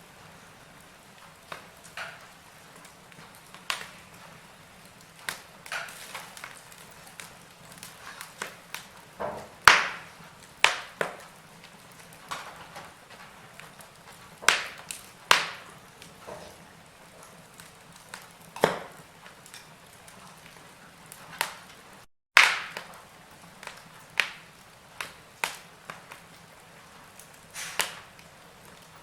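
Wood fire burning in a fireplace: irregular sharp crackles and pops from the burning logs over a faint steady hiss. The sound cuts out completely for a fraction of a second about three-quarters of the way through, and a loud pop follows.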